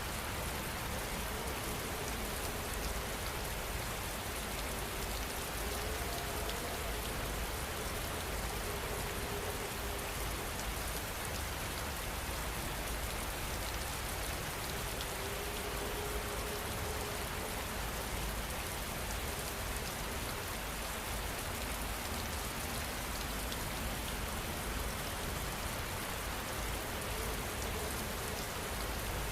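Steady, continuous rain falling on a surface, an even hiss and patter that neither builds nor fades.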